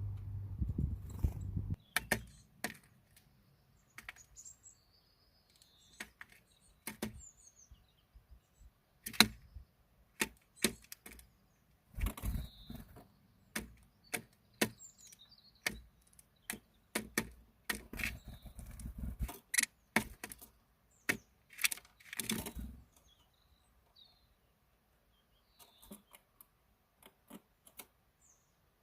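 Irregular sharp clicks and taps, some with a low thump, coming in clusters with short gaps, and a few faint high bird chirps. The taps grow sparse in the last few seconds.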